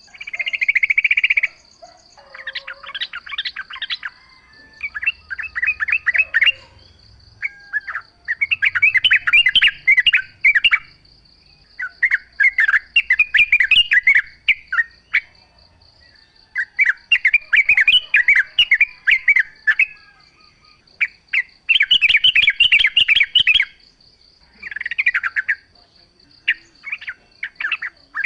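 Yellow-vented bulbul (trucukan) singing: repeated bubbly, chattering phrases of a second or two each, with short pauses between, over a steady high-pitched whine.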